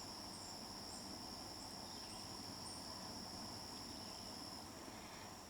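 Faint, steady high-pitched chirring of crickets singing outdoors; the main tone drops out near the end.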